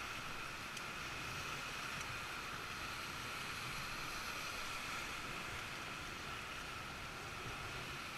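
Steady rush of river water around a whitewater raft, an even hiss with no breaks.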